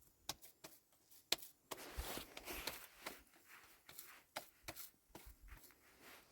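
Irregular sharp taps and knocks, the loudest about a second and a half in, with a stretch of rustling handling noise soon after.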